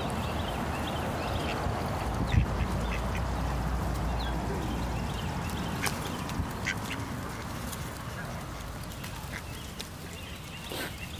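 Scattered short bird calls over a steady background noise that slowly fades.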